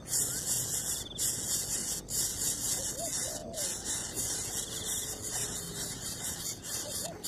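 Nestling birds giving harsh, hissing rasps of begging calls almost without pause, broken by short gaps about once a second, with a few faint chirps underneath.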